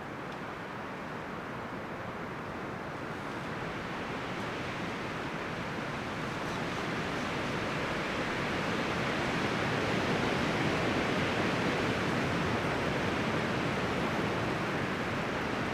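Wind rustling through the leaves and branches of forest trees: a steady rushing that swells as a gust builds toward the middle and eases a little near the end.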